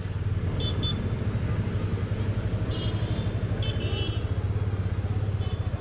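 Motor vehicle engine running with a steady low rumble, with a few short high-pitched beeps over it.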